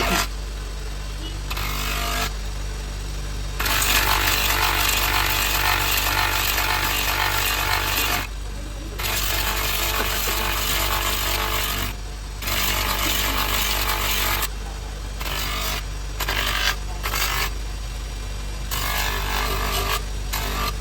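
A woodworking power tool runs with a steady low hum and works wood in repeated loud, hissing passes lasting one to four seconds, broken by short gaps. In the second half the passes turn shorter and quicker.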